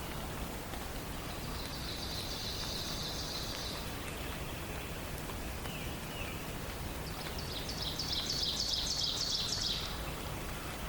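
Songbirds singing in a forest dawn chorus over a steady, even hiss: a high, drawn-out phrase a couple of seconds in, a brief falling note midway, and a louder, rapid series of high notes near the end.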